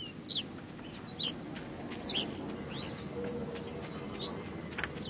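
A bird calling with short high chirps that slide downward in pitch, repeated about once a second, over a steady low background noise.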